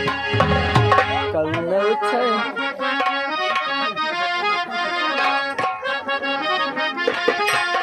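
Live Indian folk band music: a reedy, held melody with sliding notes over frequent hand-drum strokes from a dholak.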